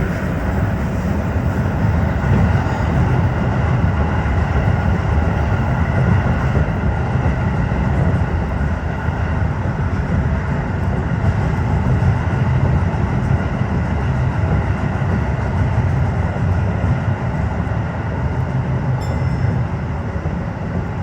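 Tokyo Metro 15000 series electric train running, a steady rumble of wheels on rail, heard from inside the leading car.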